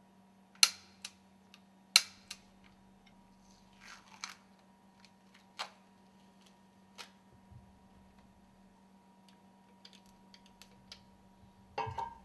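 Sharp metallic clicks and knocks of hand tools on the stuffing box housing as its bolts are tightened: two loud clicks in the first two seconds, lighter scattered ticks after, and a short clatter near the end. A faint steady hum runs underneath.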